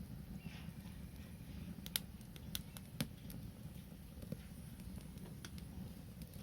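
Wood fire crackling: scattered sharp pops and snaps, the loudest about two and three seconds in, over a steady low rumble.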